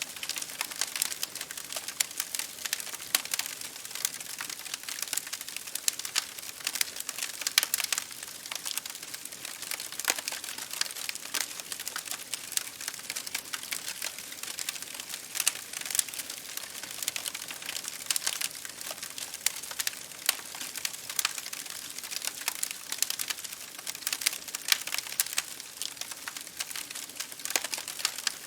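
Wood fire burning, with constant crackling: many sharp, irregular pops and snaps over a soft hiss.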